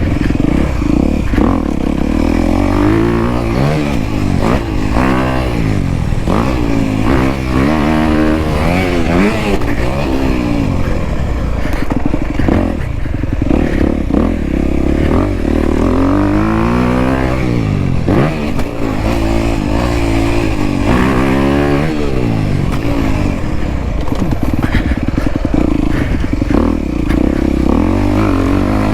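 Dirt bike engine being ridden on a motocross track, revving up and dropping back again and again as the throttle opens and closes.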